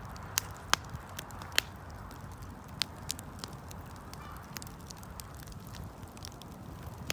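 Wood fire crackling, with sharp snapping pops from the burning wood over a low steady rumble of the flames; the loudest pops come in the first two seconds, then smaller scattered snaps.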